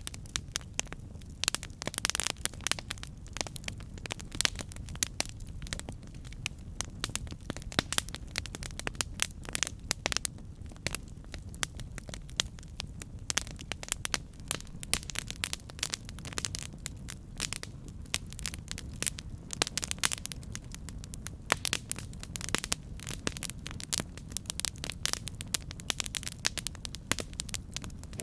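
Campfire crackling: frequent irregular sharp pops and snaps over a steady low rumble of burning wood.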